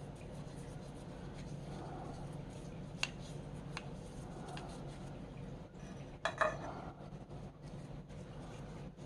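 Light metallic clinks of small metal parts or tools being handled: two single clicks a few seconds in and a louder quick cluster of clinks past the middle, over a steady low hum.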